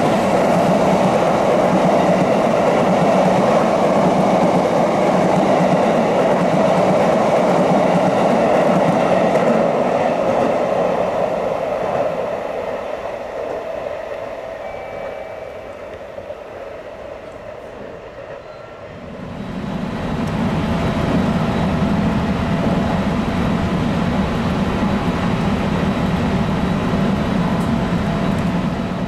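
Train running past on the rails, its loud steady noise fading away over several seconds. At about two-thirds through, a lower, steady rumble of a train begins suddenly and continues almost to the end.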